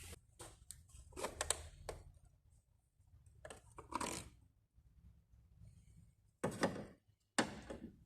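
Workshop handling noises: about five separate short clunks and rattles a second or two apart, over a faint low hum.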